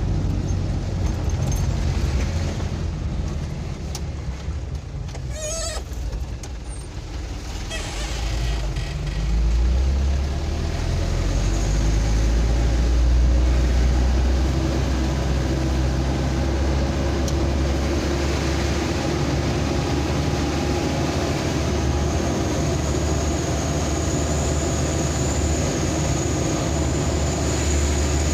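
Motor vehicle on the move: a steady low engine drone with road noise. It eases off about four seconds in, then the engine climbs again as the vehicle picks up speed around ten seconds in, and runs evenly from there.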